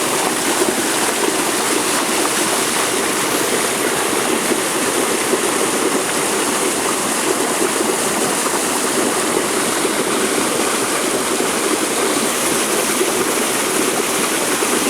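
Running water rushing steadily, as from a stream, with no breaks.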